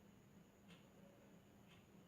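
Near silence: room tone with a low hum and a faint tick about once a second.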